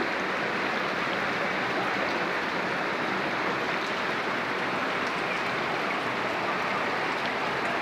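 Steady rushing of water, an even hiss-like wash at constant level with no breaks: heavy rain or floodwater flowing.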